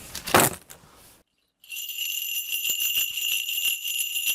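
A Korean shaman's cluster of ritual bells shaken continuously in a divination reading. The bright, steady jingling starts about one and a half seconds in, after a short breathy noise and a moment of silence.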